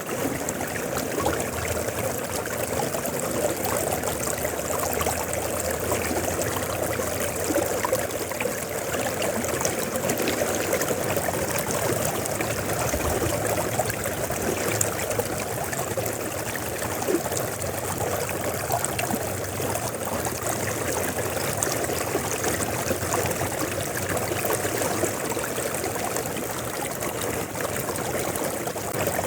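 River water flowing steadily, a continuous rushing and babbling with small splashes.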